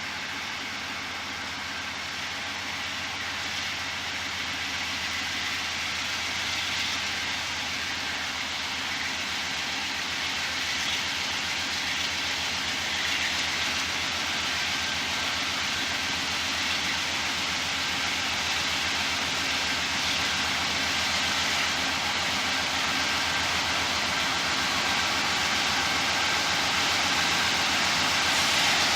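Norfolk Southern GE Dash 9-40CW diesel locomotives running on a coal train, a steady engine sound with a low pulsing throb that grows slowly and steadily louder.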